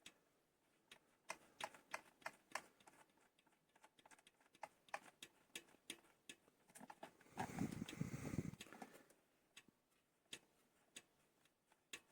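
Faint, irregular clicks and taps of a pump hose's threaded connector being screwed onto a bicycle tyre valve by hand, with a brief scuffing noise about seven and a half seconds in.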